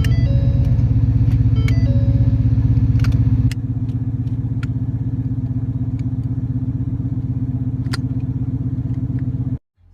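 Ford Mustang S550's engine running with a steady, pulsing low rumble. It drops to a lower level about three and a half seconds in, with a few light clicks over it, and cuts off abruptly near the end.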